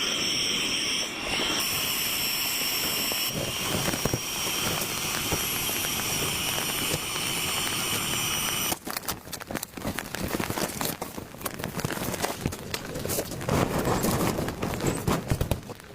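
A small electric motor running with a steady high whine, cutting off about nine seconds in. It is followed by irregular rustling and crackling.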